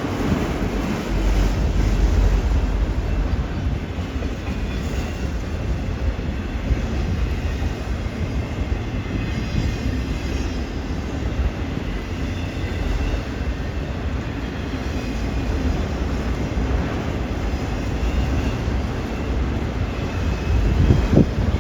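Freight train rolling past at close range, a steady heavy rumble of wheels on rail with faint wheel squeal over it.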